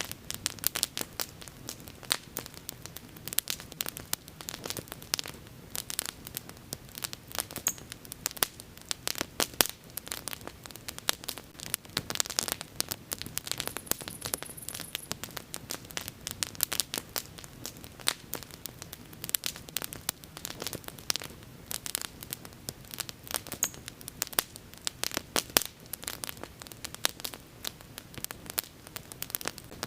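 Wood bonfire burning and crackling, with frequent sharp pops and snaps at irregular intervals over a steady hiss.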